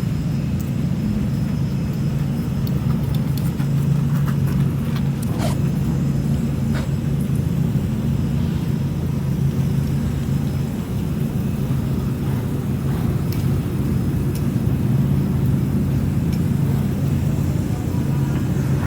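Car engine and exhaust running steadily at low revs, an even low rumble with no revving.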